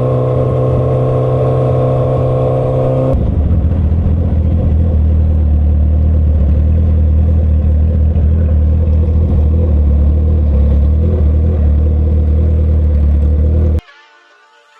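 Full-bolt-on 2012 Suzuki Hayabusa's inline-four engine running steadily at highway cruise. Its note drops to a lower, steady pitch about three seconds in, and the sound cuts off abruptly near the end.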